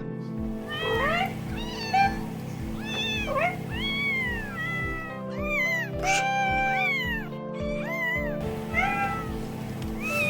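Domestic cats meowing, a quick string of short meows that rise and fall in pitch, some overlapping, from different cats in turn. Background music with a steady beat plays underneath.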